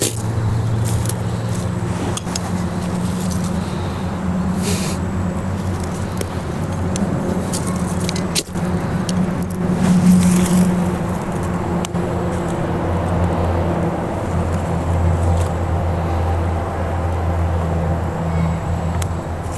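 Steady low motor drone with occasional sharp clicks and knocks.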